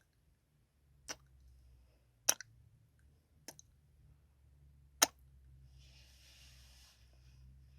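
Close-mic ASMR kissing sounds: four sharp lip smacks a little over a second apart, the last one loudest, then a soft hiss for about a second near the end.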